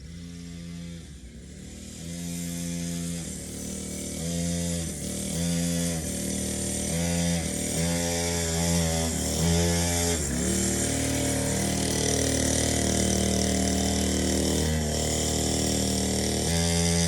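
Dirt bike engine running and being revved, its pitch dropping and climbing again several times, then holding a steady speed through the second half.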